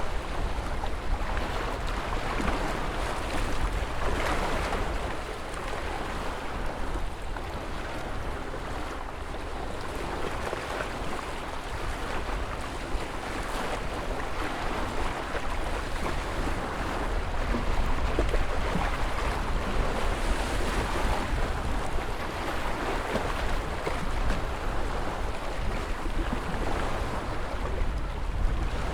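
Ocean surf: waves breaking and washing in a continuous rush that swells and eases every few seconds, with a deep rumble underneath.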